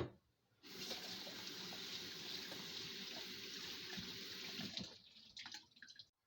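Kitchen sink tap running water into the sink for about four seconds, then shut off, followed by a few small knocks.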